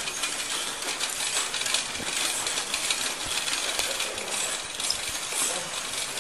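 Light metallic clinking and jingling, many small ticks, over a steady hiss of background noise.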